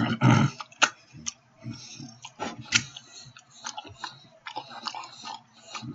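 A person chewing a mouthful of steak sandwich close to the microphone, with irregular clicks through the chewing and a louder burst right at the start.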